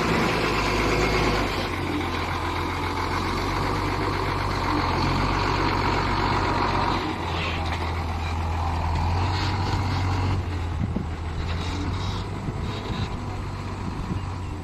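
Heavy diesel engine running steadily, its low note shifting about seven seconds in.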